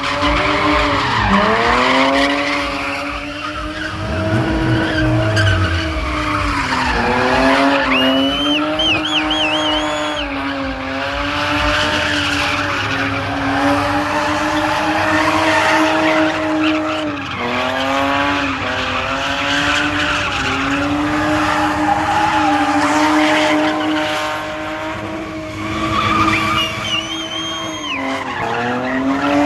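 A car engine held at high revs, its pitch dropping sharply and climbing back several times, with tyres squealing in places, as in drifting or a burnout.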